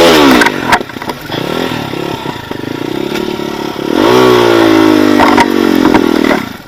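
Off-road motorcycle engine revved hard. The revs fall away at the start, run lower for a few seconds, then rise again about four seconds in and hold high before dropping, with a few knocks and clatters.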